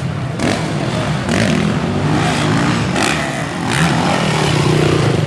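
Motocross dirt bike engines running on the track, revving with the pitch rising and falling as the riders work the throttle.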